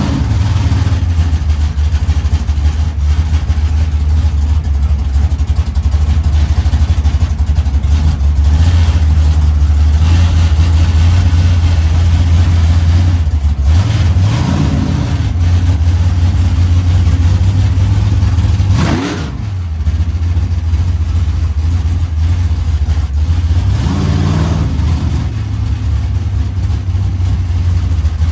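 Mustang drag car's engine idling loudly with a steady low note, blipped into short revs that rise and fall several times: once about halfway through, a sharp quick one about two-thirds in, and again near the end.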